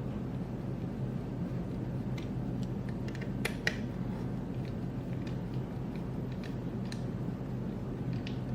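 Small clicks and taps of screws and plastic parts being handled during hand assembly, the sharpest a quick double click about three and a half seconds in, over a steady low hum.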